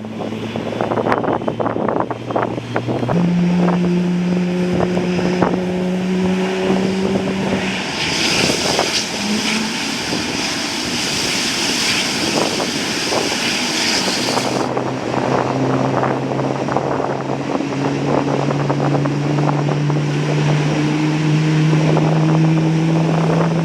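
Aircraft tow tractor's engine pulling a Boeing 777 freighter, its hum stepping up in pitch about three seconds in and rising slowly in the second half. A loud hiss joins about eight seconds in and cuts off suddenly some six seconds later.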